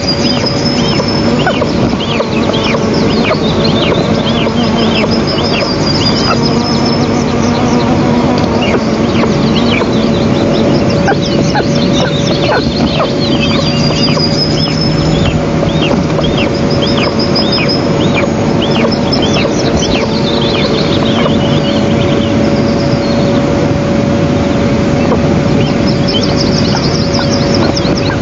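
Eastern imperial eagle chicks giving high begging calls, a series of short rising-and-falling notes repeated about twice a second, over a steady rushing noise and a constant hum. Higher trilled calls of other small birds come in now and then.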